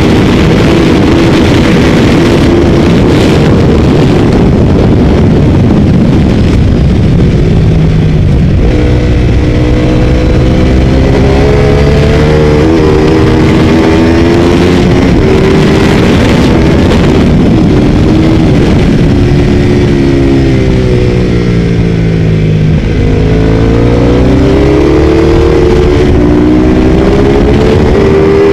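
Ducati 848 V-twin engine pulling hard at speed. Its pitch climbs and drops again and again as it runs up through the revs and shifts gear. Near the end it falls away for a couple of seconds and then climbs again.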